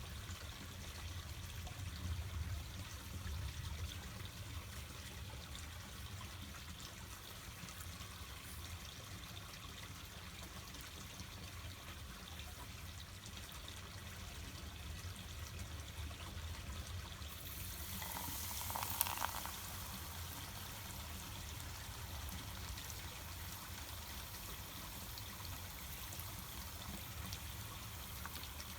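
Water trickling steadily, with one brief louder rush or splash about two-thirds of the way through.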